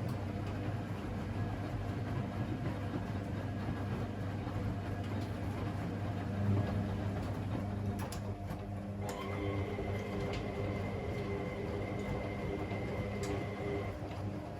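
Washing machines running: a steady motor hum and rumble, with a few clicks about eight seconds in and a thin high whine that comes in a second later and stops near the end.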